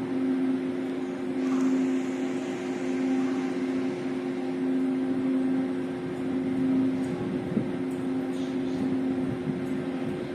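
Steady machine hum with a constant low drone.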